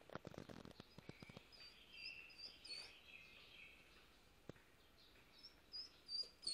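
Faint, high chirping of small birds: short repeated notes, loudest near the end. There are a few soft clicks in the first second and a half.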